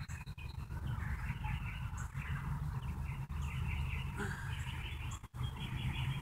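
Birds chirping and singing, short repeated chirps one after another, over a steady low background rumble.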